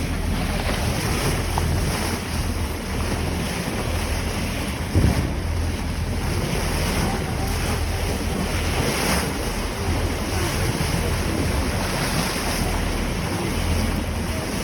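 Wind buffeting the microphone on a boat under way, over the rush of water along the hull and wake, with a steady low rumble beneath. One short knock about five seconds in.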